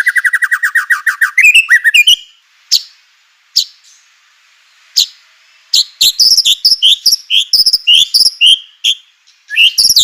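White-rumped shama singing: a fast rattling trill that slides down in pitch and ends about a second in, a few isolated sharp notes, then a quick run of rising whistled notes from about halfway through, pausing briefly and starting again near the end.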